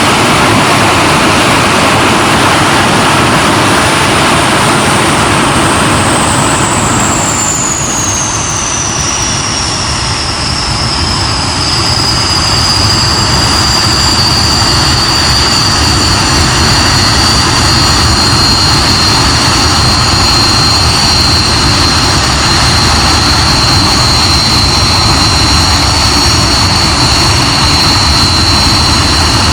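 Hawker Hunter's jet engine running on the ground, loud and steady. Its high whine drops in pitch from about six to fourteen seconds in, then holds at a steady lower pitch.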